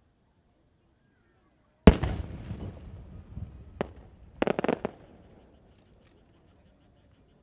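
Aerial firework shell bursting with a loud boom about two seconds in, its rumble echoing away over the next couple of seconds. It is followed by a single sharp crack and a quick cluster of crackling reports around the middle.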